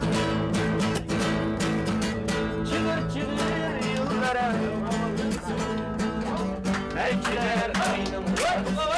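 A folk song played on a plucked string instrument, strummed in a steady rhythm, with a voice singing over it about four seconds in and again near the end.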